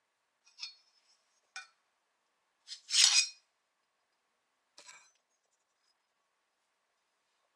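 Metal parts of an assembled wood splitter clinking as they are handled. There are two light clinks in the first two seconds, then a louder metallic clank with a short scrape about three seconds in, and one more clink near five seconds.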